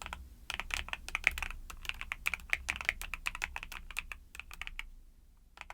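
Fast typing on a YUNZII mechanical keyboard with Cocoa Cream switches: a dense run of key clacks that thins out and pauses briefly near the end, then a few more keystrokes.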